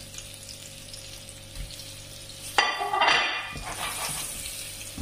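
Flour-coated meatballs frying in oil in a frying pan, a steady sizzle as they are seared to brown. A bit over halfway through, the sizzle flares much louder for about a second as the meatballs are moved in the pan.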